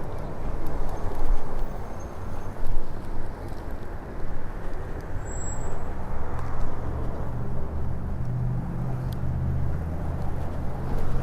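Wind buffeting the microphone of an electric bike in motion, with road and traffic noise. A steady low hum, like a vehicle engine, comes in about halfway through.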